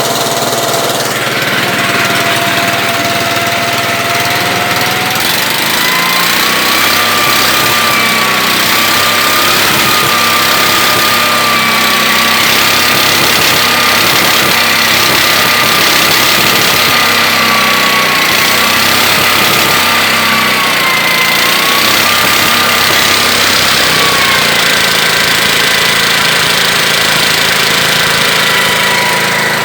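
ZiD UMZ-5B single-cylinder two-stroke engine running steadily. Its speed rises about five seconds in, holds with slight wavering, and eases off a little near the end.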